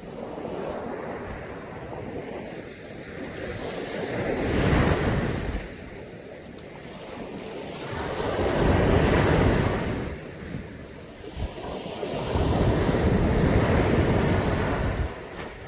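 Caribbean Sea waves breaking on a beach: the surf swells and falls back three times, with the last surge the longest, near the end. Wind is on the microphone.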